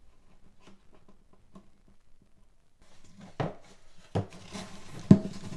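Handling noise: a few faint clicks, then rustling with three sharp knocks on wood about a second apart, the last the loudest.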